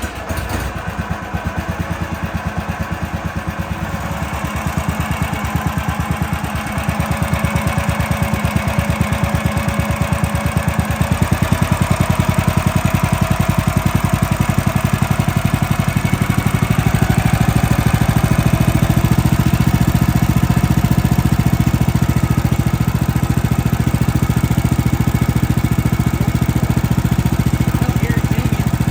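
Small gasoline engine of a Woodland Mills HM130 Max portable sawmill running just after a start, warming up. It grows louder in steps about 4 and 11 seconds in, then runs steadily.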